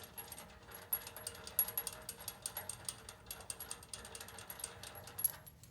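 Hand ratchet wrench clicking in quick, uneven runs as a nut on the front suspension is run down, stopping shortly before the end.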